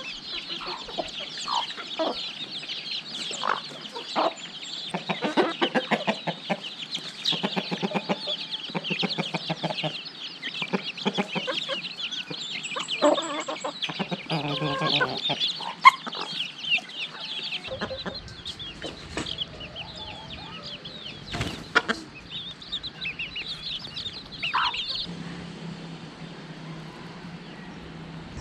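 Chickens clucking, with a dense high-pitched chirping over them that stops about three-quarters of the way through.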